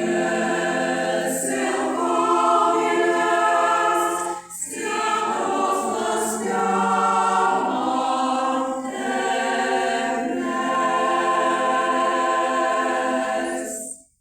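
A choir singing in long held phrases with brief breaks between them, cutting off abruptly near the end.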